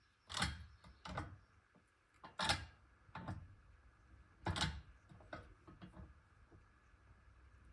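A handful of short knocks and clicks, about five in the first five seconds and fainter ones after: tools and carburettor parts being handled and set down during the jet adjustment.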